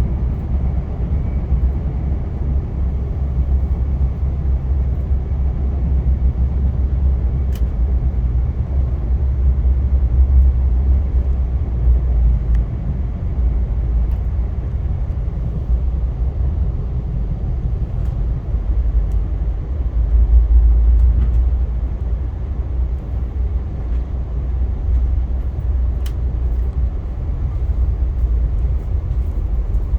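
Steady low rumble of a Via Rail passenger train in motion, heard from on board, with a few faint clicks.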